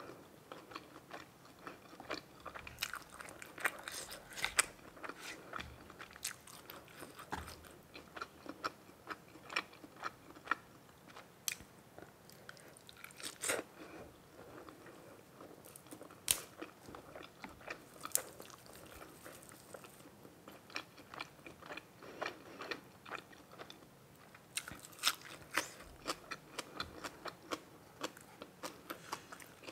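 Close-miked eating sounds: a person biting and chewing food, with irregular wet mouth smacks and clicks and now and then a crunch.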